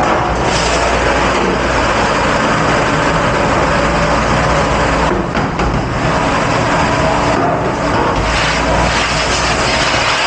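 Loud, steady rush of water spraying in a commercial dish pit, easing briefly twice, about five and seven and a half seconds in.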